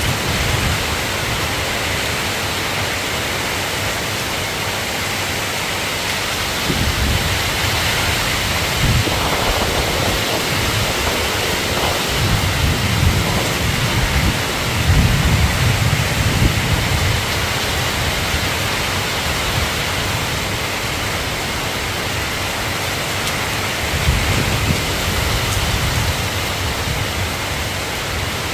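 Steady rain falling, with several low rolling rumbles of distant thunder, the longest about halfway through.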